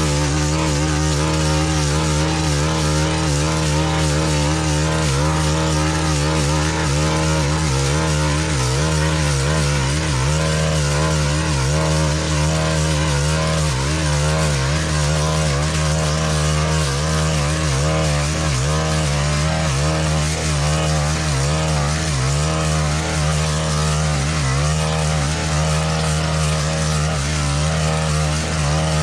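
Stihl FS-131 brush cutter's small 4-MIX engine running steadily while its mulching blade cuts through dense canary grass, the engine note wavering slightly as the blade takes load.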